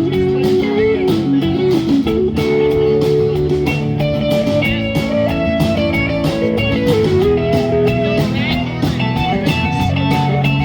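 A live band playing an instrumental break: a guitar carries a melody with bent notes over a steady drum beat.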